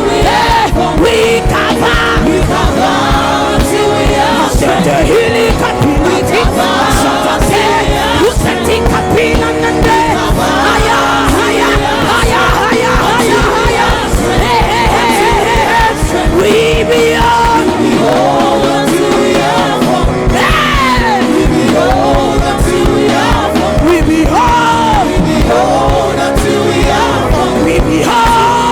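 Live gospel worship music: a singer's melodic vocal lines over a band with a steady drum beat.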